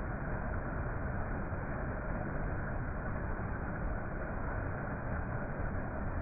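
A steady, even rushing noise with no pitch, rhythm or distinct events.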